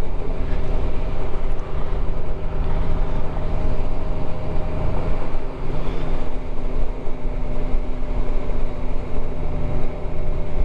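Motorcycle engine running at a steady cruise while riding, over a constant rush of wind and road noise; the engine eases briefly about five and a half seconds in.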